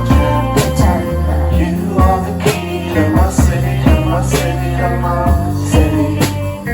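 A live rock band playing an instrumental passage: sustained bass notes and guitar chords over a steady drum beat.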